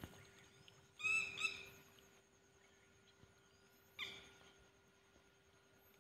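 Bird calls: two quick calls about a second in and a third at about four seconds, over a faint steady hum.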